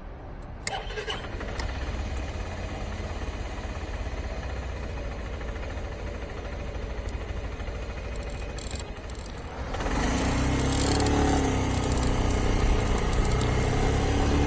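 Suzuki Skywave Type M big scooter's single-cylinder 250 cc engine running as a steady low rumble, with a rattle in it. About ten seconds in it gets louder and a clearer engine note comes through.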